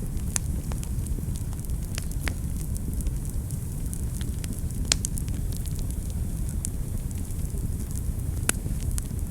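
Wood fire burning in a fireplace: a steady low rumble of the flames with irregular sharp crackles and pops, the loudest about half a second, two seconds, five seconds and eight and a half seconds in.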